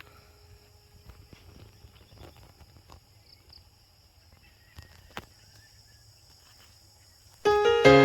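Faint outdoor garden ambience with a steady high-pitched drone and a few soft clicks. Piano background music starts abruptly near the end and is much louder.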